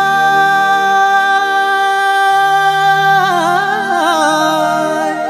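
Kumaoni folk singing: one long note held steady for about three seconds, which then breaks into a wavering, ornamented run, over a low steady drone.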